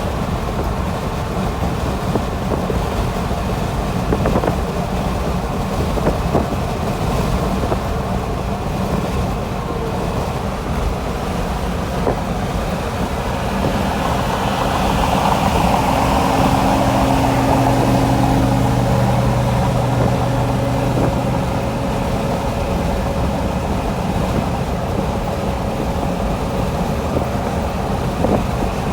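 Steady road, wind and engine noise inside the cabin of a 1959 Imperial on the move. About halfway through, a louder steady low hum swells for several seconds and then fades back.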